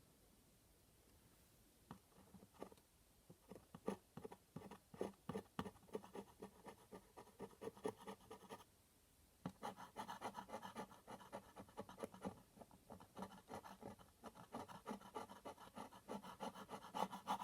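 Quick, repeated rubbing and scratching strokes on a canvas as dried masking fluid is rubbed off the painted surface. The strokes come in two runs, starting about two seconds in, with a brief break about halfway through.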